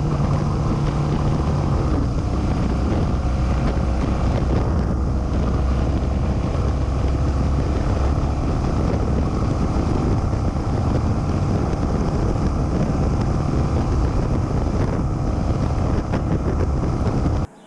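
Motorcycle riding at speed: steady engine drone mixed with heavy wind rush on the microphone, cutting off abruptly near the end.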